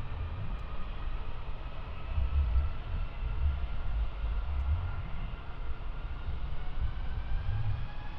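Jet airliner engines whining, several tones slowly falling in pitch together, over gusty low rumbling of wind on the microphone.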